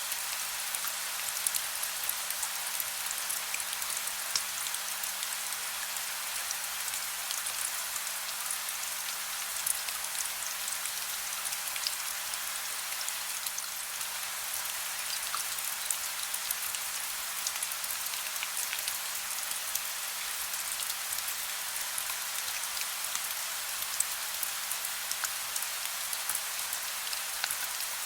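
Steady soft rain: an even hiss sprinkled with many small drop ticks.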